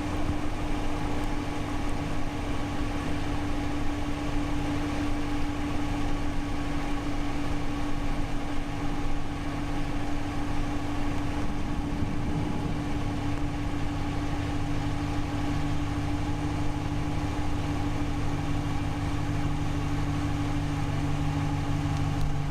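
A car running at a steady speed: an even engine hum with road noise and no change in pitch or loudness.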